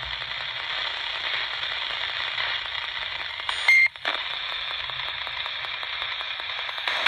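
Ghost box radio sweeping through stations, giving off a steady hiss of static. About three and a half seconds in, a brief loud squawk of a passing station cuts through, followed by a short drop-out.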